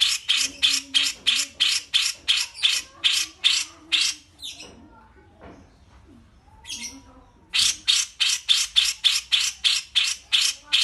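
A bulbul's song of rapid, evenly repeated sharp chirps, about three to four a second. It breaks off about four and a half seconds in and starts again about three seconds later.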